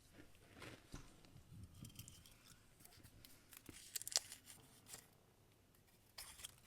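Faint rustling and crinkling of small folded paper slips being drawn out and unfolded, with a few light clicks and one sharper tick about four seconds in.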